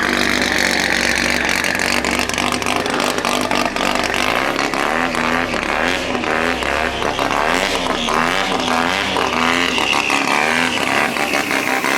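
Mazda RX-7 rotary engine being revved over and over, its pitch rising and falling, with many sharp crackles through it.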